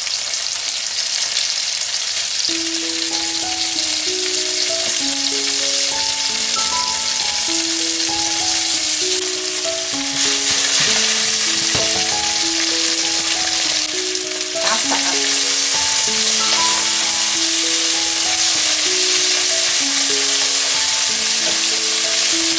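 Diced chicken thigh sizzling in hot oil in a nonstick frying pan, a steady hiss. Background music with a simple melody of held notes comes in about two seconds in.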